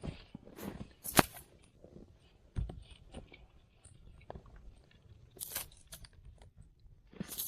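Irregular knocks, clicks and rustling of things being handled and set down, with one sharp knock about a second in.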